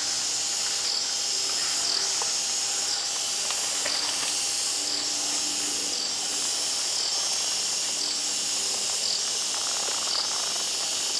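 Rainforest insect chorus: a steady, high-pitched shrill buzz that pulses about once a second, with a few fainter lower calls underneath.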